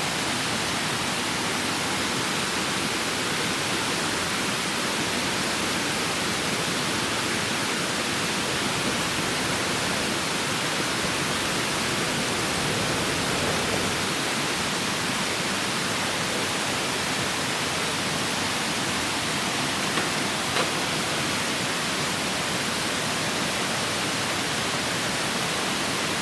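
Clear stream rushing steadily over rocks, an even hiss of running water, with two faint ticks near the end.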